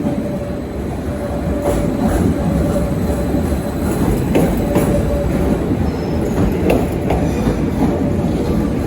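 Passenger train rolling along the platform road, a steady rumble with a thin squeal from the wheels on the rails and irregular clicks as the wheels pass over rail joints and points.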